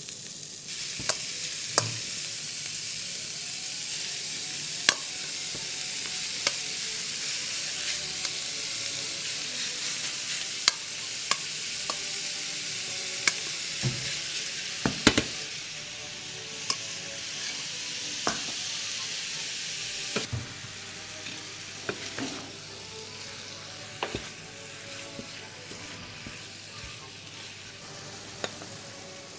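Minced pork sizzling and frying in a hot pan of oil as it is stirred, with sharp knocks and scrapes of the utensil on the pan now and then. The sizzle eases off somewhat about twenty seconds in.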